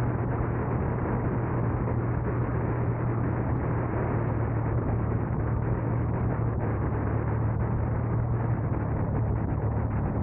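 Car driving along: steady rumble of engine and tyres with a constant low drone.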